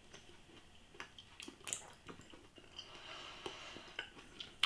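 Faint close-up chewing of slightly crunchy, al dente carrots: soft, irregular crunches and mouth clicks, the sharpest click near the end.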